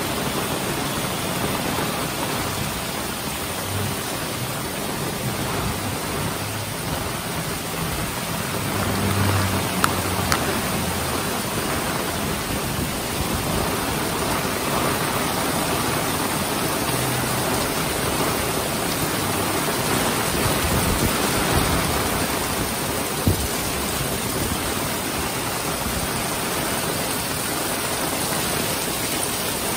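Heavy rain pouring down, a steady hiss. A low hum swells briefly about nine seconds in, and there are a few sharp ticks.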